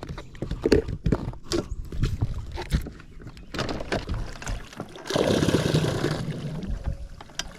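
Knocks and clatter in a small boat, then a couple of seconds of water rushing and sloshing.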